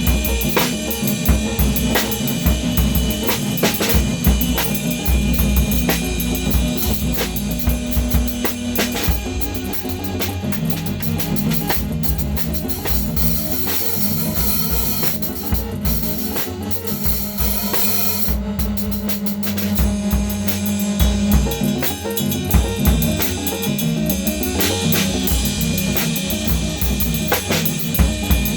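Acoustic drum kit played freely, kick, snare, rimshots and cymbals in dense irregular hits, over a droning modular synthesizer with a held low note and high electronic tones.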